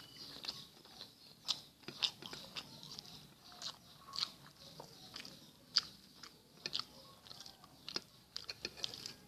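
Close-miked chewing and biting of rice with green chili sambal and omelette. Many short, sharp mouth clicks come at irregular intervals, a few every second.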